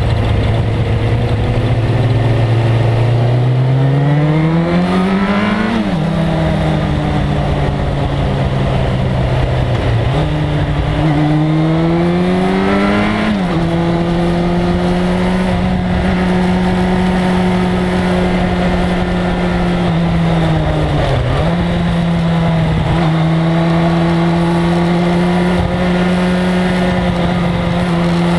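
1997 Suzuki GSX-R1100's inline-four engine accelerating hard: its pitch rises, drops sharply at an upshift, rises again and drops at a second upshift about halfway through. It then holds at steady revs, with one brief dip in pitch near three-quarters of the way through.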